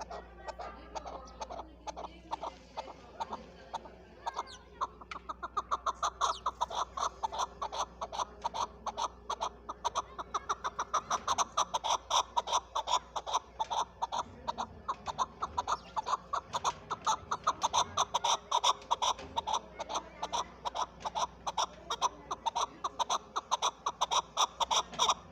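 Chukar partridge calling: a long run of short, rapidly repeated chuck notes. The notes are faint at first and grow much louder about five seconds in.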